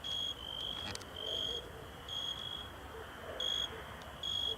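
Crickets chirping: short, high, clear chirps about once a second, irregularly spaced and sometimes overlapping at slightly different pitches, with a single faint click about a second in.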